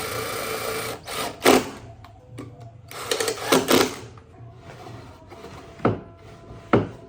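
Workshop work sounds: two short runs of a small power tool, about a second in and again around three seconds in, with several sharp knocks, the loudest about a second and a half in.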